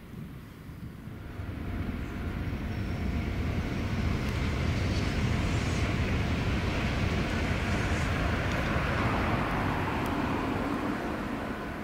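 Meitetsu electric train approaching and running through the station: the rumble of wheels on rails grows over the first few seconds, then holds loud and steady, easing slightly near the end.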